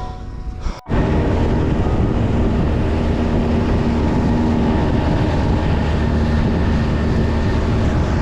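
Small outboard motor running steadily at speed on an inflatable boat, with wind and water noise. It starts abruptly about a second in, after the tail of a music track.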